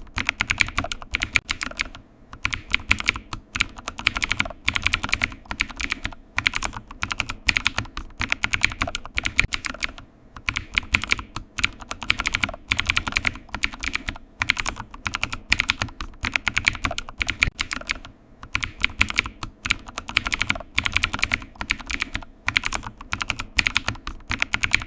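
Typing on a computer keyboard: quick runs of key clicks a few seconds long, broken by brief pauses.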